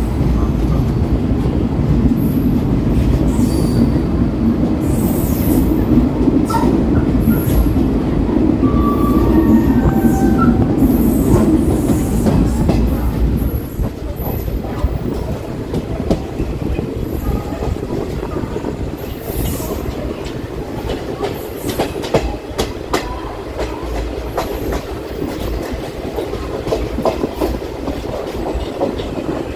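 Running noise of an ICF passenger coach on the move: a heavy rumble of wheels on rails that eases about halfway through, with sharp clacks of the wheels over rail joints in the second half.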